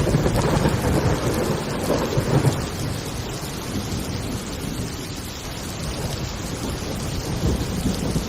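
Heavy rain falling with rolling thunder, the rumble strongest in the first two and a half seconds and then easing off.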